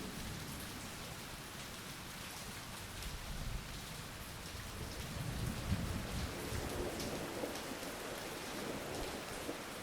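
Steady rain pattering, with a low rumble of thunder swelling about five seconds in.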